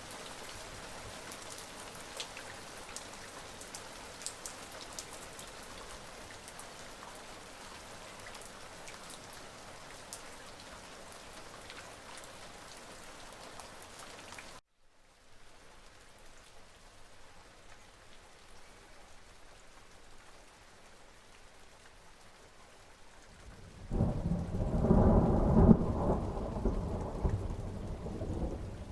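Steady rain falling, with fine drops pattering. About halfway through it cuts abruptly to a softer, duller rain, and near the end a loud rumble of thunder rolls in and keeps rumbling.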